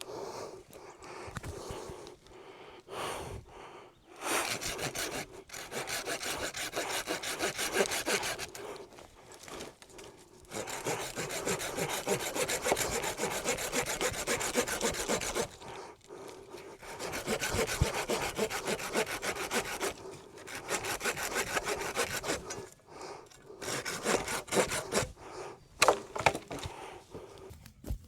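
A handsaw cutting through wood in several bouts of quick back-and-forth strokes, with short pauses between them.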